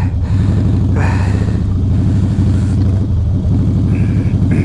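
Harley-Davidson V-twin engine running at low revs with a steady, loping rumble while the motorcycle is ridden slowly through tight turns.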